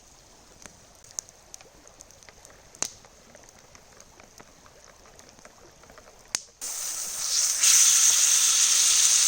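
Faint crackling with scattered small pops. About six and a half seconds in, after a cut, bacon sizzles loudly and steadily in a pan over a campfire.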